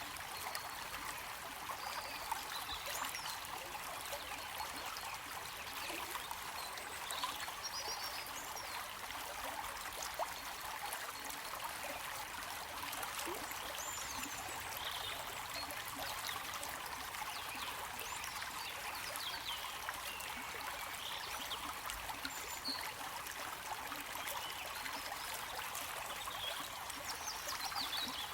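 Running water of a small stream, trickling steadily with no pauses.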